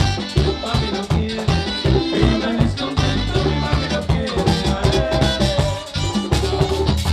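Live bachata band playing in a steady dance rhythm: scraped güira percussion, drums, bass and picked guitar.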